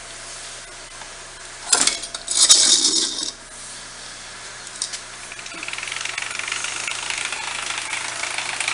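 Kawasaki KX450F four-stroke single-cylinder motocross bike being kick-started with difficulty: a sharp clatter about two seconds in and a loud burst lasting about a second, then from about halfway a steady, fast mechanical rattle that grows louder.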